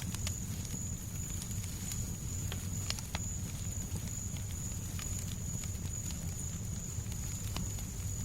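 Fireplace crackling: scattered sharp pops and clicks over a steady low rumble, with a faint thin high whine throughout.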